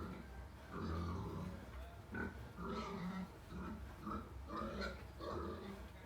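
Pigs grunting in a run of short, irregular grunts, about two a second.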